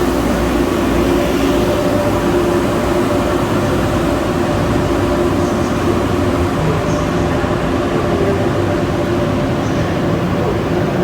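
High-speed electric train at the station platform: a loud, steady running noise with a constant hum of several pitches, the higher hum tones fading about two-thirds of the way through.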